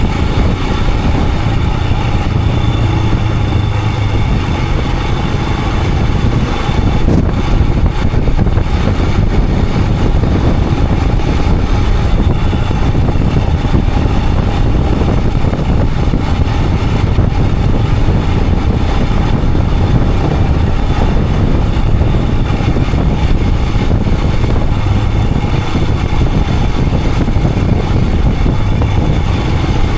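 Royal Enfield Himalayan 411's single-cylinder engine running steadily as the motorcycle rides along, with wind and road noise over it.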